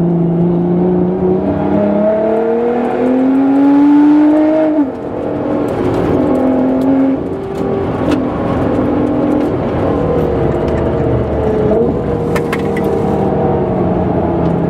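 Tuned Nissan GT-R R35's twin-turbo V6 under hard acceleration on track, its note rising for about five seconds, then falling sharply as the throttle is lifted. The revs rise and fall again through the following corners.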